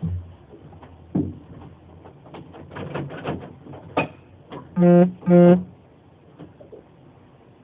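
Two short, loud buzzer beeps from the boat's dash warning horn, typical of the MerCruiser's key-on self-test just before cranking. They come after a few seconds of scattered knocks and clicks.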